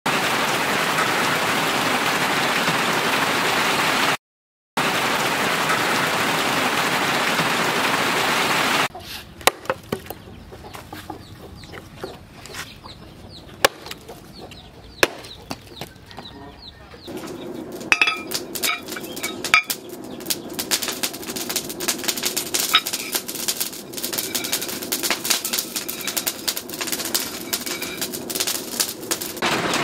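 Heavy, steady rain, broken by a half-second of silence. After about nine seconds it gives way to chickens clucking among sharp knocks of a hatchet chopping wood. From about halfway it turns into a steadier noise full of quick clicks and knocks.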